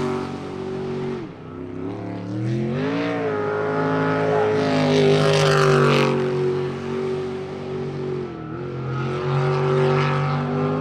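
Sprint boat engine running hard on a racing run. The revs drop sharply about a second in, climb back, and dip once more near the end.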